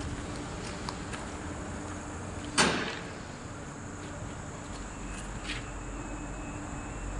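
A single sharp bang about two and a half seconds in, with a short ring after it, over a steady background hum.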